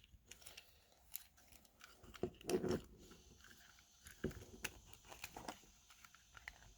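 Small clicks, scrapes and crackles of a diecast toy car being handled and pried at, its drilled-out metal body and plastic base worked against each other to separate them, with a louder bout of crackling about two and a half seconds in.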